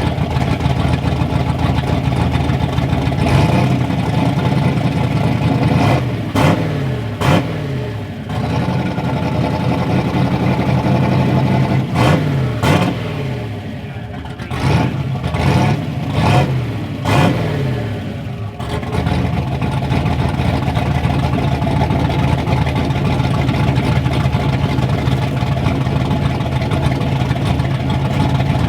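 Ford Ranger truck engine with a freshly rebuilt top end idling, blipped up and back down in a string of short revs over the first two-thirds, then settling into a steady idle.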